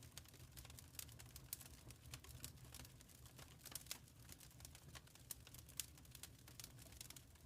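Faint wood fire crackling in a fireplace: irregular sharp pops and snaps, several a second, over a low steady rumble.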